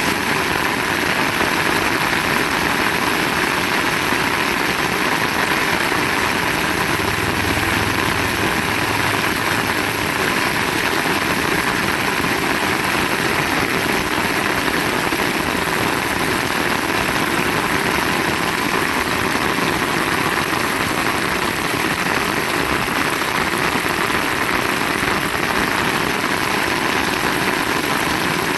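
Heavy rain pouring down in a steady, even roar.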